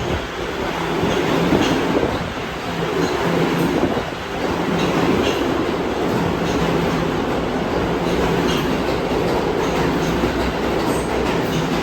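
New York City subway train running, a steady rumble with a low hum and scattered light clicks from the wheels on the track.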